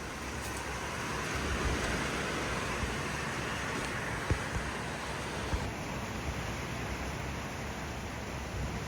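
Strong thunderstorm wind gusting steadily, swelling a little early on, with a couple of faint knocks partway through.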